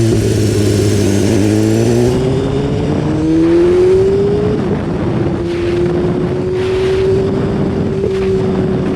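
BMW S1000RR inline-four sport bike engine heard onboard: the pitch falls as it slows, then rises as the rider accelerates, dips briefly at a gear change, and settles to a steady cruise. Wind buffets the microphone in gusts through the second half.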